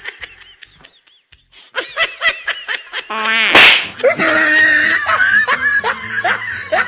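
Comic sound effects: quiet for the first second and a half, then a fast run of short, high-pitched giggles, then a louder burst of laughter over music.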